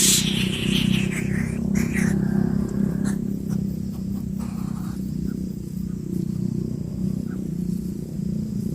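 Steady low rumble like a running motor vehicle, with a hiss that fades out over the first two seconds.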